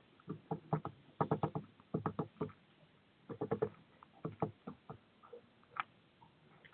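A bird moving at a feeder right by the microphone: quick runs of tapping and scratching clicks, several close together, with short pauses between them.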